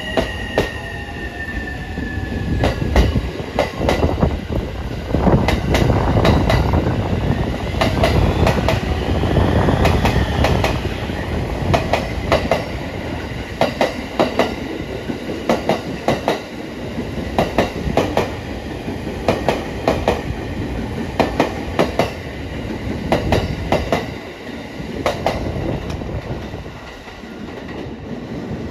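JR East E231-1000 series electric train, two coupled sets, pulling away from a station: its wheels clack over a rail joint in short sharp clusters bogie after bogie, over a steady rumble. The traction inverter whine is heard under it, falling in pitch in the first couple of seconds and rising then falling again around the middle.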